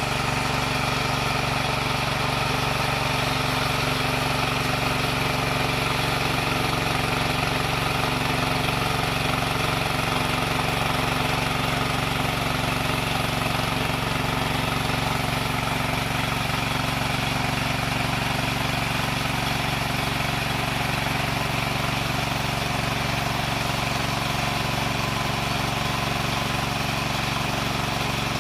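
Wood saw machine running steadily at an even pitch, with no rise or fall in speed or load.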